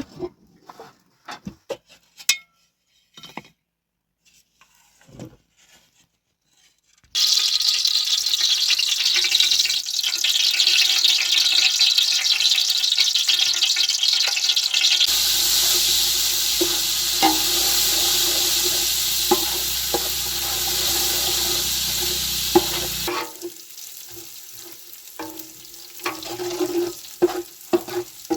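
Scattered light clicks and knocks, then about seven seconds in a loud, steady sizzle of food frying in hot oil starts suddenly, with a few clinks from stirring. The sizzle drops in level a few seconds before the end.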